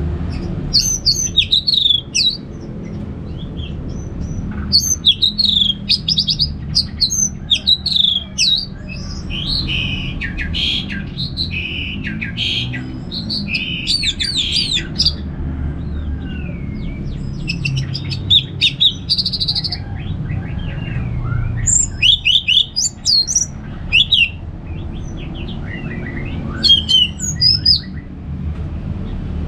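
Orange-headed thrush singing a loud, free-flowing song: quick runs of varied whistled and twittering notes in phrases a second or two long, broken by short pauses. A steady low rumble runs underneath.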